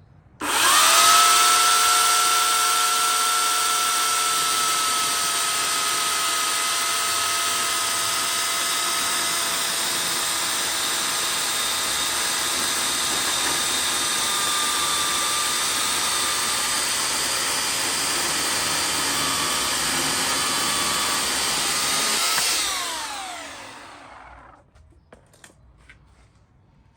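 Titan TTL758CHN electric chainsaw starting with a quick rising whine and then running at full speed for about 22 seconds while cutting through a timber sleeper. Its whine dips and wavers in the second half, then falls away as the trigger is released and the motor winds down.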